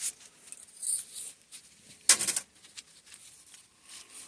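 Small parts from a suspension fork's internals being handled: light clicks and rustles, with one sharper clack about two seconds in.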